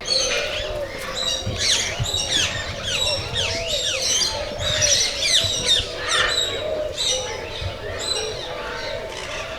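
A flock of aviary birds calling all at once: a dense, continuous chatter of quick falling and arching chirps with squawks mixed in.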